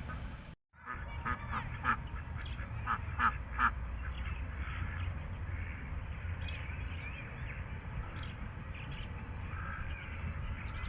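Ducks quacking and geese honking. The sound cuts out briefly just after the start, then a quick run of loud calls comes between about one and four seconds in, followed by scattered calls over a steady low background noise.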